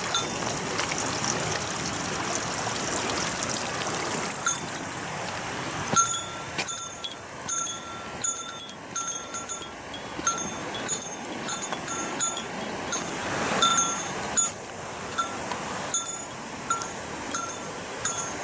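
Steady rush of a waterfall, with a small bell ringing over and over in an uneven jingling rhythm, thickest from about six seconds in.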